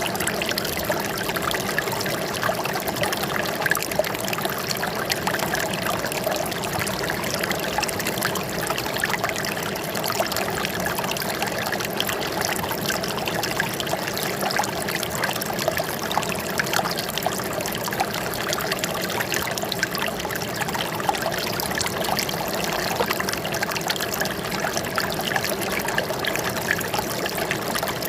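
Water flowing and trickling steadily, a continuous splashing babble with many small droplet sounds and no pauses.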